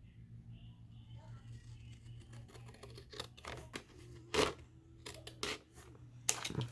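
Small paper craft pieces being handled on a desk: light rustling and crinkling with scattered taps and clicks, two sharper ones about four and six seconds in.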